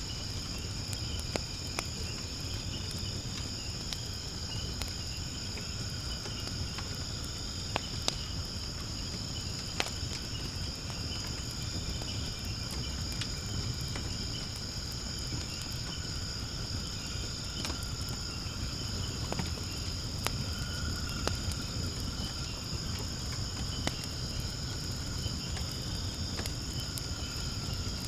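Firewood burning in a fire pit, crackling with scattered sharp pops over a low steady rumble of flame. Behind it, insects chirr in a steady, unbroken high drone.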